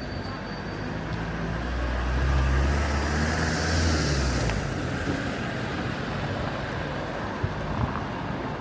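A motor vehicle passing close by on a city street: a low engine hum and tyre hiss swell over a couple of seconds and fade away by about halfway through, leaving general traffic noise, with two short knocks near the end.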